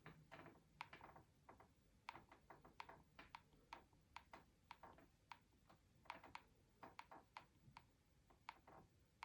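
Faint, irregular clicks and light taps from hard objects being handled, a few each second.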